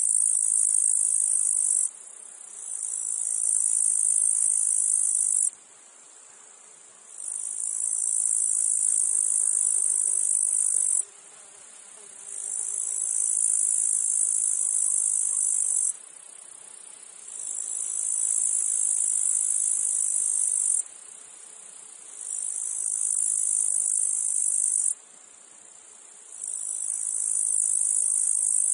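Cicadas singing in a meadow: a high, shrill buzz in repeated phrases of three to four seconds, each swelling in and cutting off abruptly, with a pause of about a second between them.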